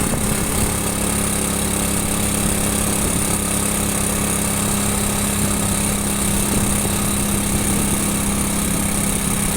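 Motorcycle engine running at a steady speed on the move, a constant low drone, with road and wind noise.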